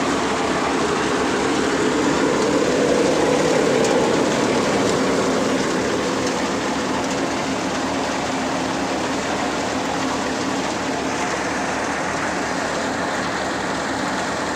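New Holland 3600-2 50 hp tractor engine running steadily under load at about 1400 rpm, driving a threshing 'cutter' through its PTO while black mustard is threshed. The engine and the machine's rattle and rush blend into one dense, even noise that swells slightly a few seconds in.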